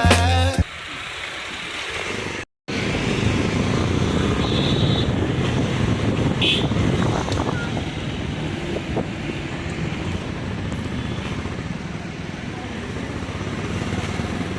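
Wind buffeting the microphone in a steady, gusty rumble.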